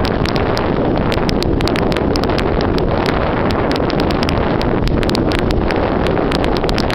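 Heavy wind buffeting the microphone: a loud, steady rumbling rush with frequent sharp crackles.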